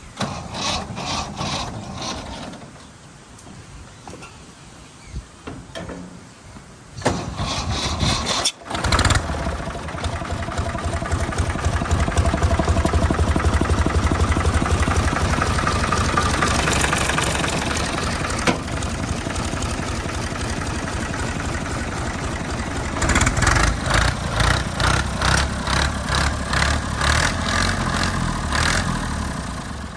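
Tractor engine starting about seven seconds in, cutting out for a moment, then running steadily. Near the end the engine sound pulses in an even rhythm.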